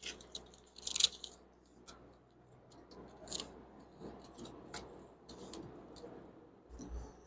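HVAC tape being handled: its paper backing peeled off and the tape pressed and wrapped in place, giving a scatter of crinkles and clicks. The loudest is a sharp crackle about a second in.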